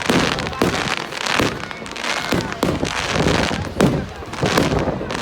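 Fireworks going off: irregular sharp bangs, several a second at times, over continuous crackling.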